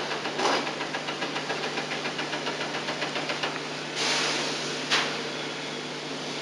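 Wiring harness being pulled out of a car seat's moulding: faint rustling and scraping, a rougher scrape about four seconds in and a sharp click just before five seconds, over a steady videotape hum and hiss.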